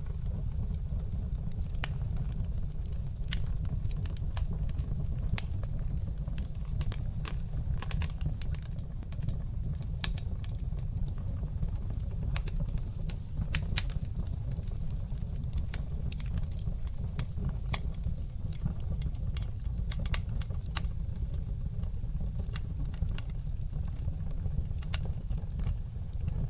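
Wood fire burning in a fireplace, crackling and popping in quick, irregular sharp snaps over a steady low rumble of the flames.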